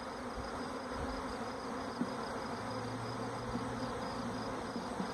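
Steady buzzing of a large swarm of honey bees flying around a hive box just after the swarm was captured, with bees coming out of the box.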